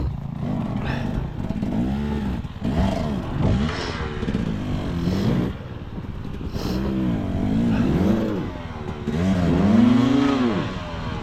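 Dirt bike engine revving up and down over and over, the throttle opened and closed in repeated pulls. The loudest, longest rev comes near the end.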